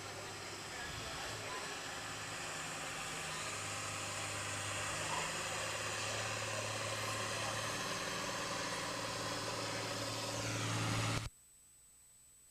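John Deere tractor engine running hard under load while pulling the sled, its steady note growing louder over about eleven seconds. The sound then cuts off suddenly.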